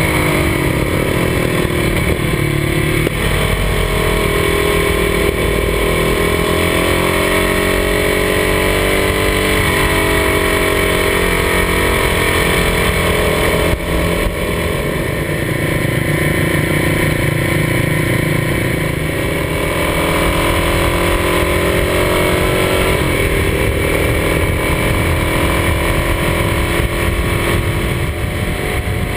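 Kawasaki D-Tracker 250's single-cylinder four-stroke engine running at speed, its note rising and falling as the rider works the throttle and gears through a run of bends, with a few sudden drops in pitch at gear changes. Wind noise hisses over the microphone.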